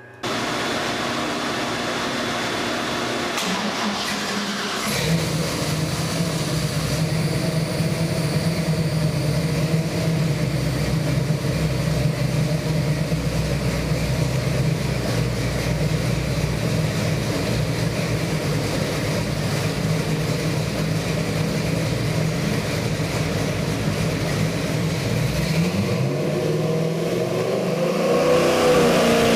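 Chevy 383 stroker small-block V8 with MSD Atomic EFI running. It settles into a steady idle about five seconds in and is revved up and down near the end.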